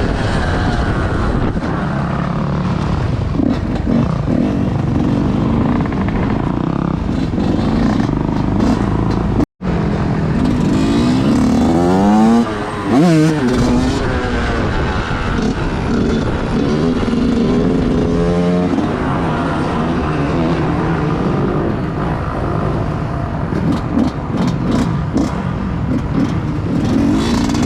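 Motorcycle engines running and revving during a group ride, the pitch climbing and dropping several times as riders accelerate and shift. The sound cuts out for an instant about ten seconds in.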